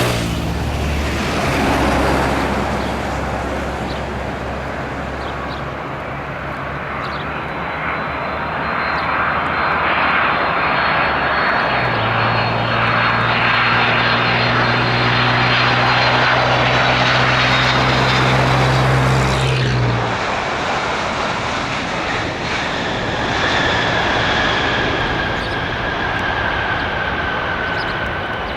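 Boeing 767-300ER jet engines going by: a rushing roar that builds, peaks and then eases, with a high whine that falls slowly in pitch as the airliner passes. A separate low steady hum cuts off about twenty seconds in.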